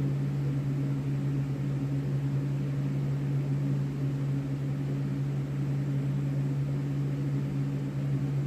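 A steady, unchanging low mechanical hum with a higher overtone, like a running appliance or motor.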